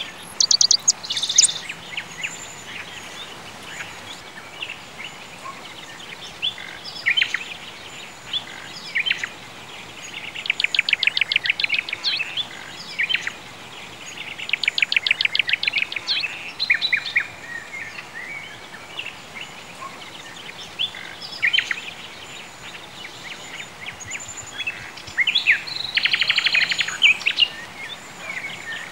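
Songbirds chirping and singing over a steady faint hiss, with a few rapid trills of repeated notes, the longest about ten, fifteen and twenty-six seconds in.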